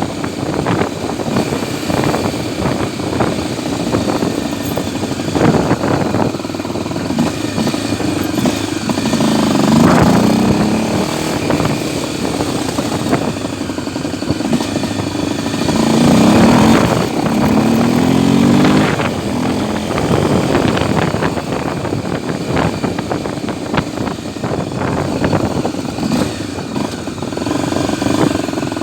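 Honda XR250 Tornado motorcycle's single-cylinder four-stroke engine running, its revs rising and falling in several pulls, the loudest about a third of the way in and just past halfway.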